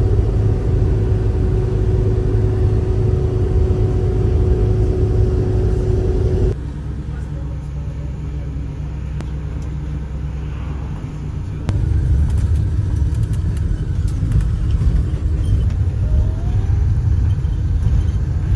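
Steady low rumble of a motor vehicle on the road, with a steady hum over it for the first few seconds; the sound drops abruptly about six seconds in and comes back up about twelve seconds in.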